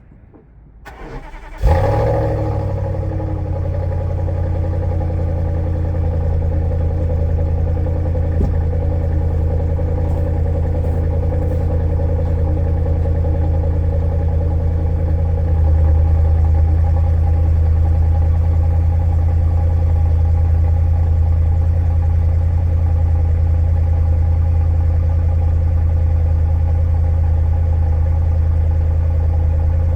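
Volvo S80's 4.4-litre V8 cold-starting on its stock exhaust. The starter cranks briefly, and the engine catches with a loud flare under two seconds in. It then settles into a steady idle that gets a little louder about halfway through.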